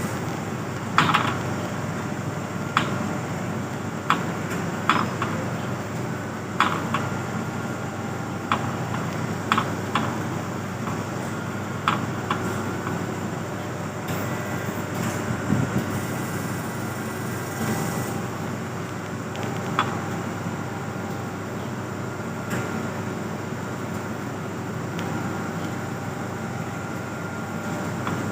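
Heavy rain falling steadily, with irregular sharp taps of drops striking a hard surface every second or so.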